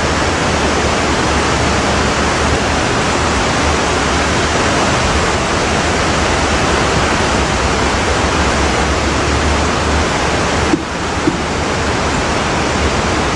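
Steady rushing of floodwater, an even, loud noise with no pauses; a low rumble under it stops about eleven seconds in.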